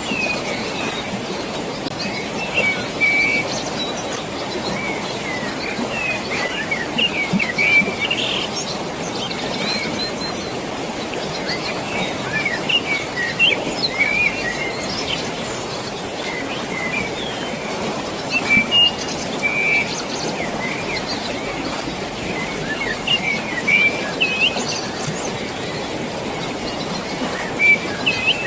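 Birds chirping and twittering in repeated short phrases over a steady rush of flowing water.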